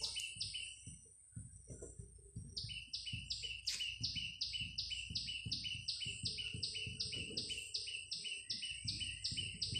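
A bird chirping outside in a quick, even series of two-part calls, about three a second, starting about two and a half seconds in. Faint scratching of a pencil writing on paper lies underneath.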